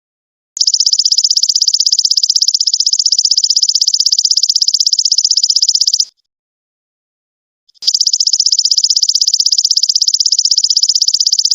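Golden locust (belalang emas) insect calling: a high, rapidly pulsed buzzing trill in two long bouts, the first about five and a half seconds long, the second starting about two seconds after it stops. Each bout starts and stops abruptly, with dead silence between.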